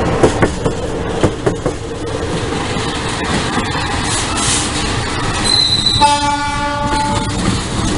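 A long-distance passenger train running past close by, its wheels clacking sharply over the rail joints in the first couple of seconds. About six seconds in comes a single horn blast lasting about a second.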